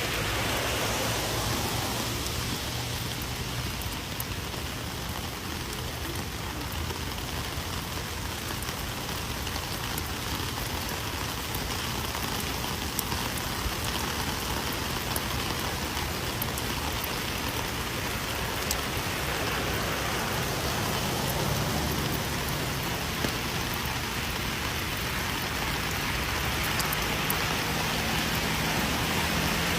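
Rain falling steadily, a continuous even hiss with scattered sharp drop ticks.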